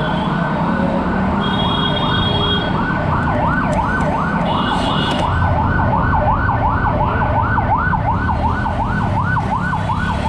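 Vehicle siren in a fast yelp, its pitch sweeping up and down about three times a second without a break, over road traffic rumble. Two short high beeps come about a second and a half in and again near five seconds.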